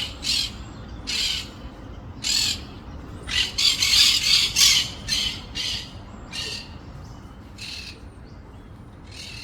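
Green parrots (monk parakeets) giving harsh squawking calls, a string of short squawks that come thick and fast about three to five seconds in, then thin out.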